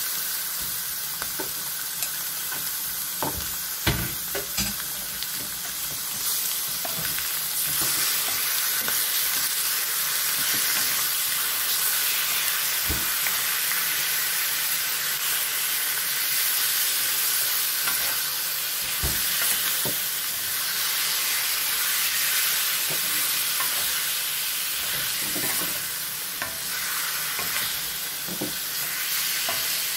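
Raw chicken strips sizzling in hot oil in a metal wok, a steady hiss, while a wooden spatula stirs them, knocking and scraping against the pan a few times.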